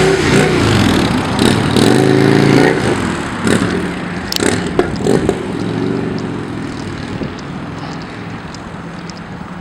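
A motor vehicle engine revving and pulling away, its pitch rising and falling, with a few sharp clicks in the middle; the engine sound then fades steadily over the last few seconds.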